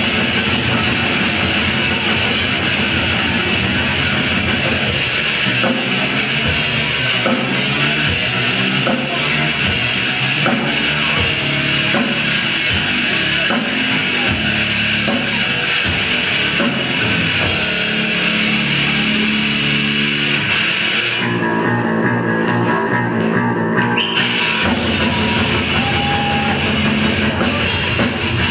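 Rock band playing live, with electric guitars and a drum kit. About three-quarters of the way through, the drums and cymbals drop out for a few seconds, then come back in.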